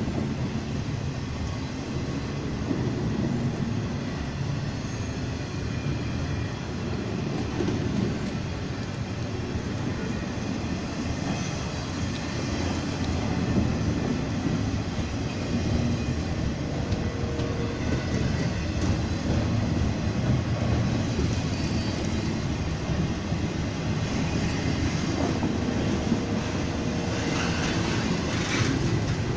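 A train rolling past close by, a steady rumble of wheels on the rails with some clacking over rail joints.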